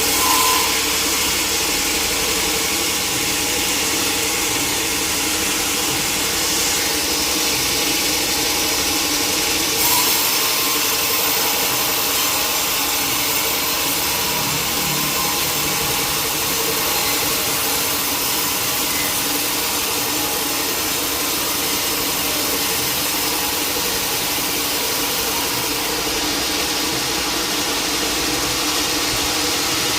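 Sawmill machinery running steadily: a continuous mechanical drone with a steady hum under a hiss, with a brief louder knock right at the start and another about ten seconds in.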